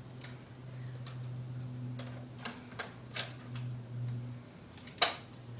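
Nerf blaster being worked by hand while it is unjammed: scattered plastic clicks, then one sharp snap about five seconds in, over a low steady hum.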